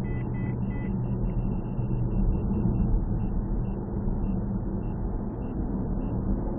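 Steady car engine and road noise from inside a moving car, recorded through a dashcam's muffled, low-quality microphone, with faint short high beeps repeating through it.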